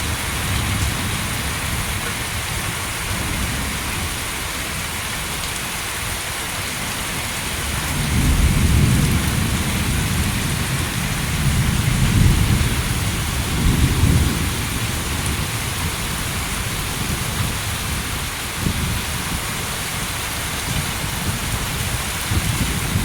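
Heavy thunderstorm rain falling steadily, with low rolls of thunder that swell up about eight seconds in and again a few times after.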